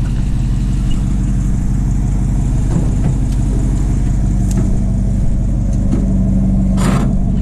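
Truck engine idling steadily, with a few short clanks of metal being handled, the loudest near the end.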